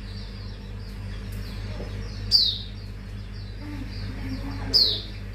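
Hume's white-eye singing: a steady stream of quick, high chirps broken by two loud, sharp downward-slurred notes about two and a half seconds apart. A steady low hum runs underneath.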